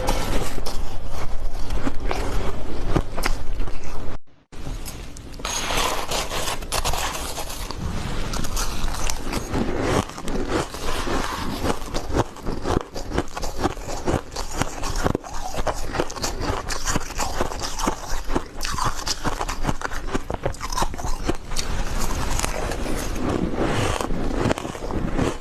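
Refrozen powdery ice being bitten and chewed close to the microphone: a dense run of soft, crisp crunches and crackles. The sound cuts out briefly about four seconds in, then the crunching goes on.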